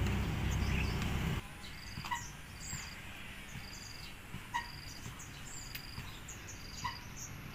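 Faint outdoor ambience with small chirping calls: a short high chirp repeats about once a second, and a lower two-note chirp comes three times. A low rumble of wind on the microphone stops abruptly about a second in.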